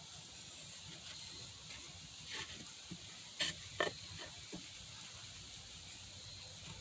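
Pin marking gauge scratching faintly along the edge of a wooden board, with a few light clicks and knocks of handling in the middle.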